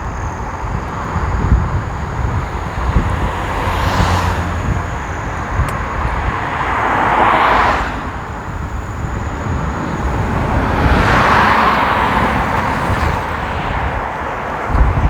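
Cars passing on a wet road, three times, about 4, 7 and 11 seconds in: each swells into a rushing tyre hiss and fades, over a steady low rumble.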